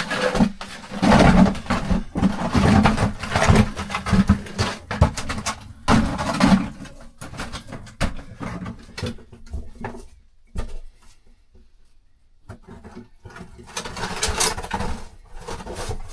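A rope-and-pulley-hauled bucket loaded with rocks and rubble scraping and knocking against the rock walls of a cave entrance pit, in irregular clatters and scrapes. It goes quieter about eight seconds in and picks up again near the end.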